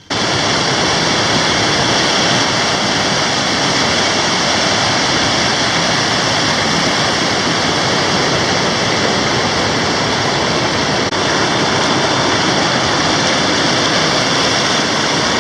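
Loud, steady rushing noise that starts abruptly and holds without change.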